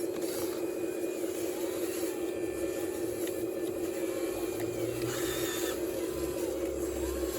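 Radio-controlled model Cat excavator's motor and hydraulic pump whining steadily, with short rising and falling tones as the machine moves.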